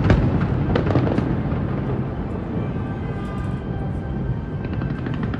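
Fireworks bursting: several sharp bangs in the first second or so, then a continuous rumble of booms and crackle. Faint music runs underneath.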